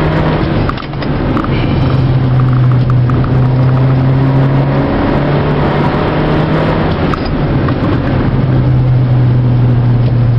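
Mazda2 (Demio) four-cylinder engine pulling hard at speed on a race circuit, heard from inside the cabin over steady road and tyre noise. Its note shifts in pitch a few times as the revs change.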